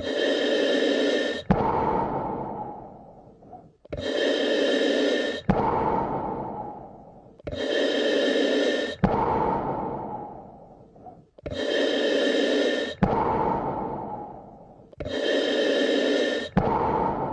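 Slow, steady human breathing in an even rhythm of about one breath every four seconds. Each breath has a louder part of about a second and a half that stops abruptly, then a softer part fading out over about two seconds.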